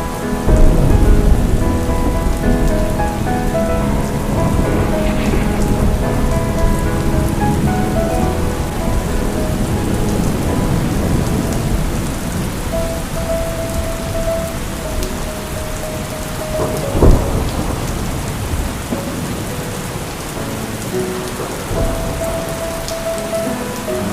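Steady rain with thunder: a heavy rumble about a second in and a sharp thunderclap about two-thirds of the way through, the loudest moment. Soft background music with held notes plays over the rain.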